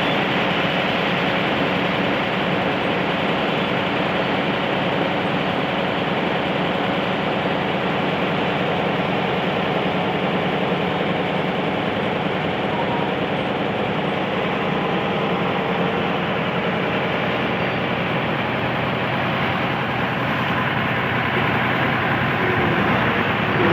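Diesel engine of a Sany 210 heavy excavator running steadily.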